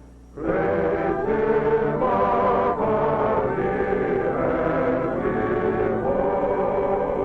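A choir singing a slow phrase in sustained notes, coming in about half a second in after a brief pause.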